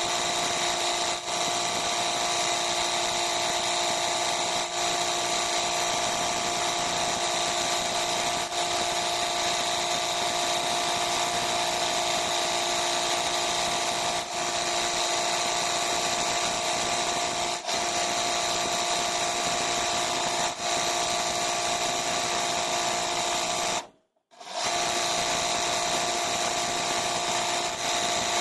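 Sewing machine running continuously at a steady high speed, its motor giving a steady whine; it breaks off for about half a second once, then runs on.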